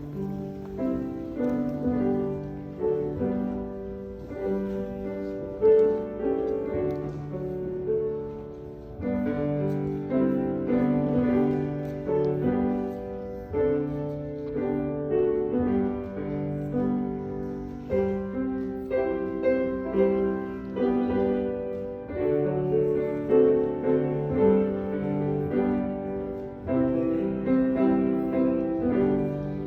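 Solo piano playing music in held chords that change every half-second to a second.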